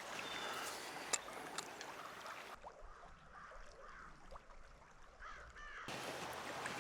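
Faint outdoor ambience with bird calls.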